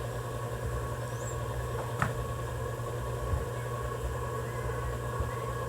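A small single-cylinder motorcycle engine idling steadily, with a sharp click about two seconds in.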